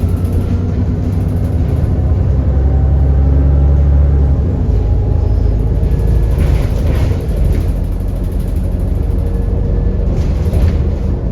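An ADL Enviro400 double-decker bus under way, heard from inside: a steady drone of engine and road noise with a heavy low rumble that eases about four and a half seconds in.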